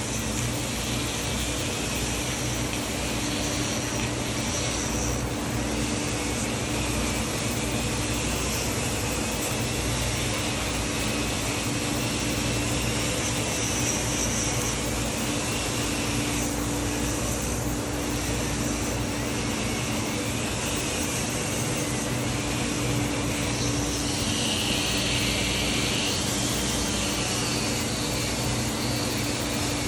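Dremel rotary tool running steadily, cleaning rust and grime from a carbon-steel pocket knife, with a constant motor hum and a thin high whine that wavers in pitch as the tool works the metal.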